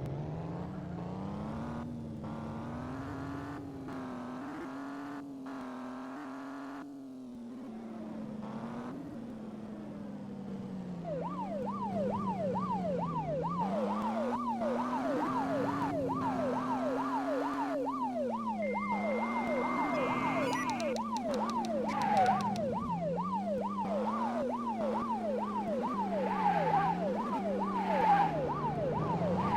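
Cartoon police car sound effects: an engine drone that slowly rises and falls in pitch. About a third of the way in, a siren joins with a fast repeating rising yelp, about two sweeps a second.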